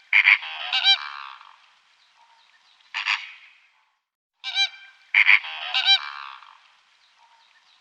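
Flamingos honking in short bouts of repeated calls: a cluster at the start, a single call about three seconds in, another cluster around five to six seconds, and one more at the end.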